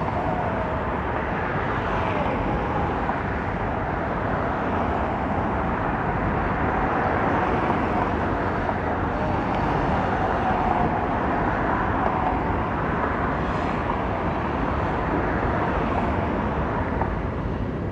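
Freight train rolling past: a steady rumble of steel wheels on rail with a faint, wavering squeal, ending abruptly.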